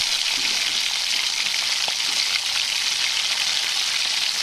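Fish balls deep-frying in hot oil in a pan: a steady sizzle.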